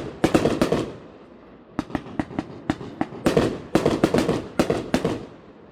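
Aerial fireworks going off in rapid volleys of sharp bangs and crackles: a burst at the start, scattered cracks around two seconds in, and a dense cluster that dies away near the end.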